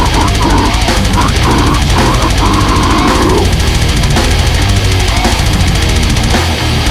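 Extreme metal music: loud, heavily distorted guitars and drum kit playing continuously, with a wavering high line over the first three seconds. The band stops abruptly right at the end.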